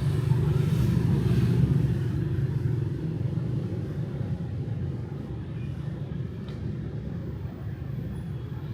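City street traffic at night, motorbikes and cars, a steady low rumble that is louder in the first two seconds and then eases off.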